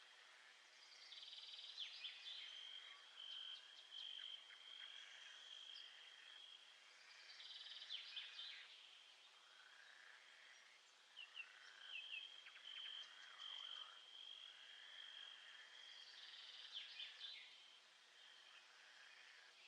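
Faint nature soundscape of calling frogs and insects: a high, steady trill that starts and stops in stretches of a few seconds, over clusters of short chirps and repeated swooping calls.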